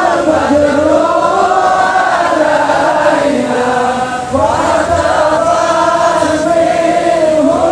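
A large crowd singing sholawat together, an Islamic devotional chant in praise of the Prophet, in long held unison notes. There is a short break about four seconds in before the next phrase rises.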